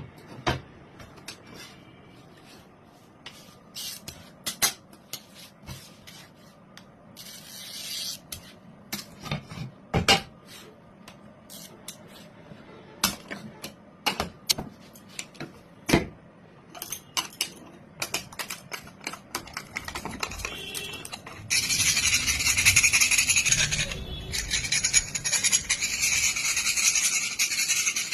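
Hand work on a motorcycle mirror: scattered sharp clicks and knocks of tools and parts being handled, then about two-thirds of the way in a steady, harsh rasping starts. The rasping breaks off briefly once.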